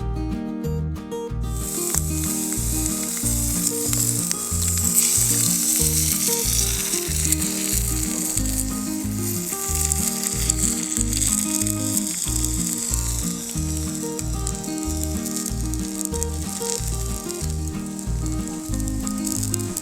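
Food sizzling and frying in a cast-iron skillet over a Swedish torch fire, the sizzle starting about a second and a half in and running on steadily. Background music with a regular beat plays under it.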